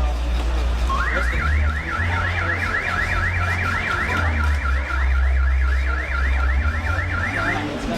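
Electronic car-alarm siren sweeping rapidly up and down, about four or five sweeps a second; it starts about a second in and stops shortly before the end. Under it, deep bass tones that shift in pitch play throughout.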